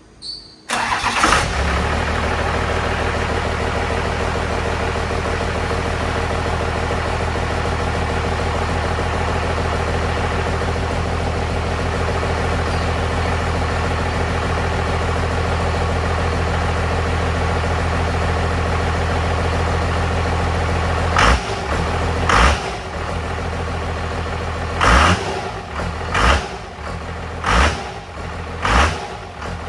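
12-valve Cummins turbo-diesel starting: it catches about a second in on the first try and settles into a steady idle. Near the end it is blipped with about six quick throttle revs, roughly one every second or so.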